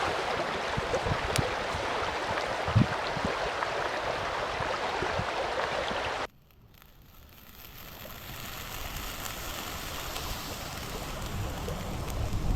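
Steady rush of a flowing mountain stream with scattered sharp clicks. About six seconds in it cuts abruptly to a much quieter hiss that slowly builds.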